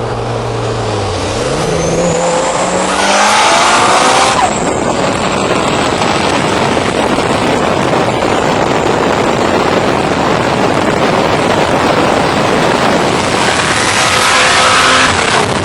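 Engine pulling hard under full acceleration, its pitch rising through the first few seconds, then a steady rush of wind and road noise at well over 100 mph, with the engine note rising again near the end.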